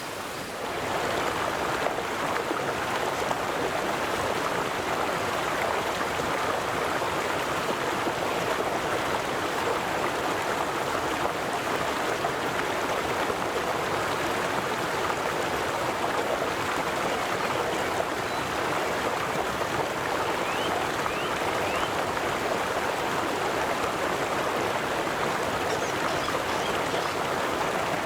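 River water flowing in a steady, rushing babble. It grows louder within the first second, then holds even.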